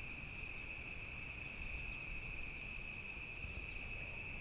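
Crickets trilling in one steady, unbroken high-pitched drone.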